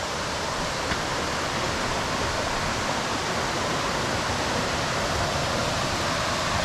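Steady rushing of flowing water, an even unbroken roar.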